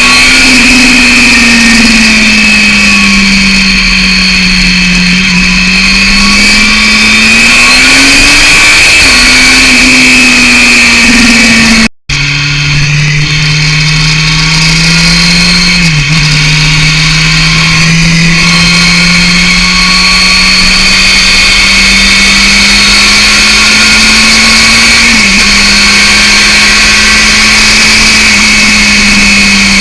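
Yamaha FZR 600 inline-four engine running through a BOS aftermarket exhaust while the bike is ridden, its pitch rising and falling slowly with the throttle. About twelve seconds in the sound cuts out for a moment and resumes lower. There are two short, sharp dips in pitch later on.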